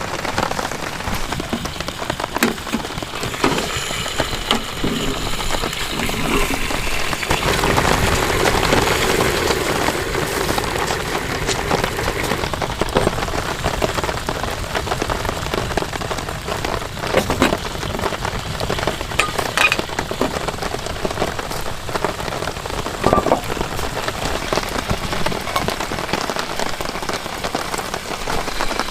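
Steady heavy rain falling, with scattered sharp drop hits; it grows louder for a few seconds about a quarter of the way in.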